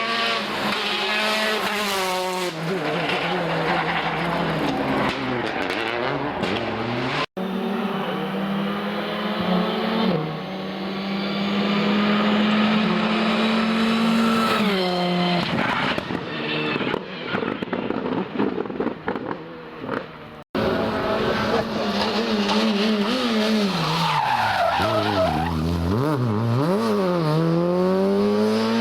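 Rally cars at speed on a special stage, engines revving hard and dropping back through gear changes and braking. Three separate passes are joined by abrupt cuts about 7 and 20 seconds in.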